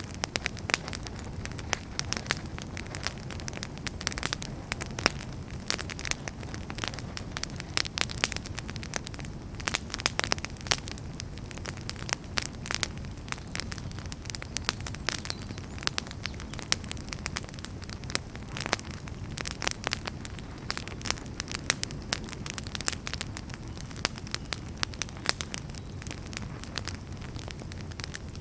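Wood fire burning, with a steady low rumble and dense, irregular crackles and pops from the burning firewood.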